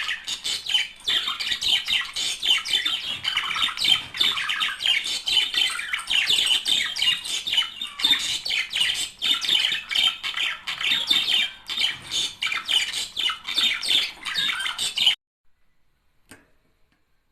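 A pair of budgerigars chattering and warbling, a fast unbroken stream of squawks and chirps. It cuts off abruptly about fifteen seconds in, and a single faint click follows.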